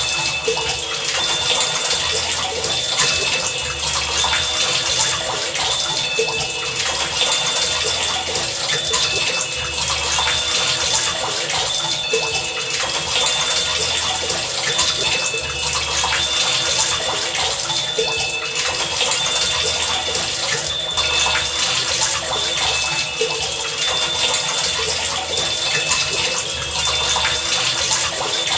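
Heavy rain falling steadily, with short pitched plinks recurring throughout at a few set pitches and a low throb that comes and goes about every two seconds.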